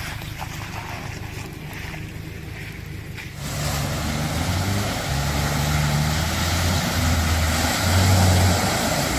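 Jeep engine running low, then about three and a half seconds in it revs up and works hard, its pitch stepping up and down, with a rushing noise of tyres and wind over it.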